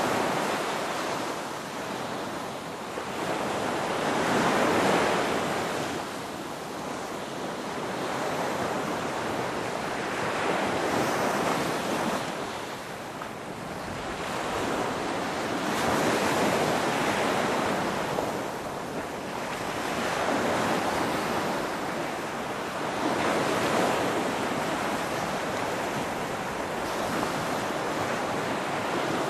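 Ocean waves breaking and washing up the shore, the surf swelling and fading every four to six seconds.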